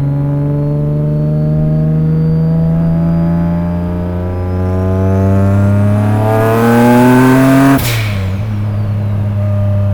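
Turbocharged V6 of a single-turbo Nissan 350Z pulling hard in gear: the engine note and a high turbo whine climb together for about three seconds. About eight seconds in, a sharp whoosh of released boost marks the shift, the revs drop, and the turbo whine falls away.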